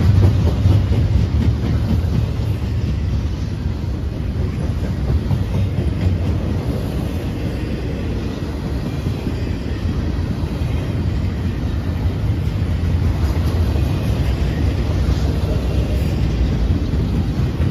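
Double-stack intermodal freight train's well cars rolling past, a steady low rumble of steel wheels on the rails.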